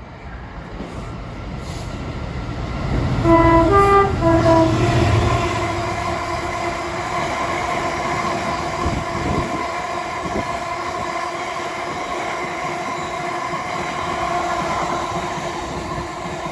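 A GB Railfreight Class 66 diesel locomotive passes close by with its two-stroke diesel engine throbbing. About three seconds in it sounds its two-tone horn, low-high-low. The train then rolls past with a long, steady rumble and a ringing tone.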